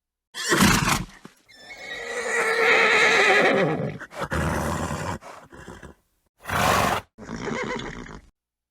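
A horse whinnying: one long quavering neigh whose pitch drops at the end, between several short, breathy snorts. The calls are separated by sudden cuts to dead silence.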